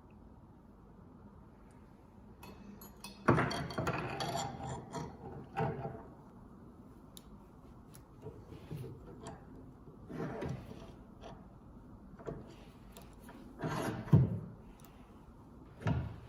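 Hand work at a workbench: a few seconds of rubbing and scraping, then short scrapes and knocks at intervals.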